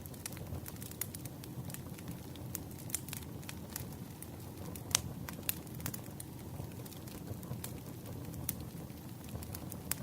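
Wood campfire crackling: irregular sharp pops and snaps over a low steady rumble, with one louder pop about five seconds in.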